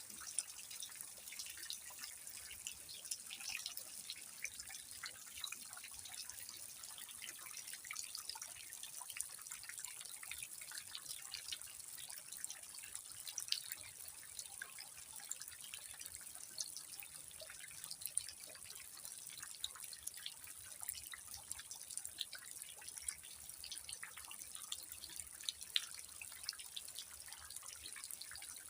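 Rain falling steadily: a constant hiss with many small, irregular drop ticks throughout.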